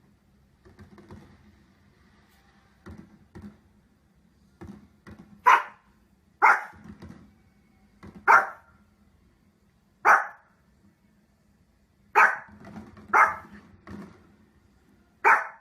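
A dog barking: single sharp barks one to two seconds apart, seven loud ones from about five seconds in, with a few fainter sounds before them.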